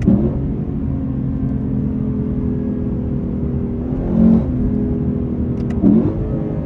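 Lexus LC 500's naturally aspirated 5.0-litre V8 running at a steady engine speed, heard from inside the cabin over a low road rumble. There are two brief louder moments, about four and six seconds in.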